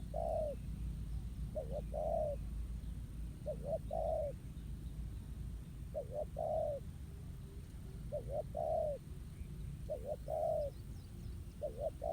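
Spotted dove cooing: a repeated phrase of two quick short notes and then a longer note, about every two seconds.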